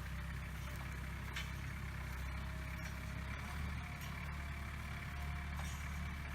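Engine of a Mule utility vehicle running steadily at low revs, a constant low hum.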